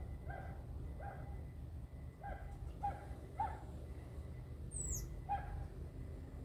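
Repeated short animal calls, each a brief pitched note coming every half second to a second, over a steady low rumble. About five seconds in there is a single very high, falling chirp.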